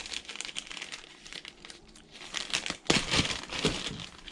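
Packaging crinkling and rustling as it is handled, in a run of small crackles that grows louder near the end.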